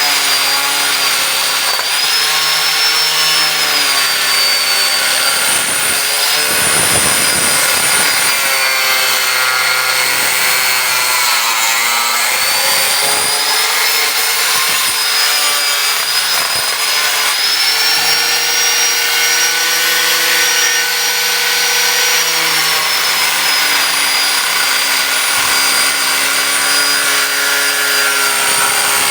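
Angle grinder with a cutting disc cutting through the metal of a water heater, a loud, steady grinding with a high whine. The whine drops in pitch a few times as the disc bites in, around the middle, then picks back up.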